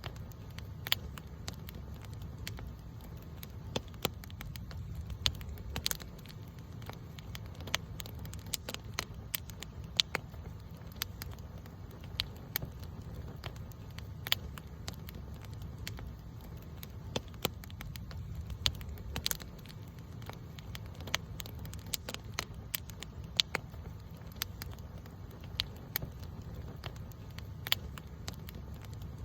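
Wood campfire crackling, with irregular sharp pops and snaps, several a second at times, over a steady low rumble.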